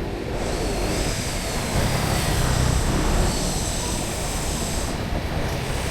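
Motor traffic on a city street: a steady engine rumble with a rushing hiss that swells about a third of a second in and fades near the end, as of a vehicle passing close by.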